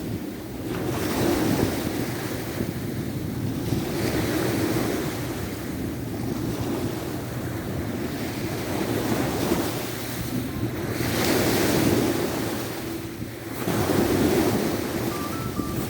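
Sea of Azov waves breaking on the shore in surges every few seconds, with wind buffeting the microphone.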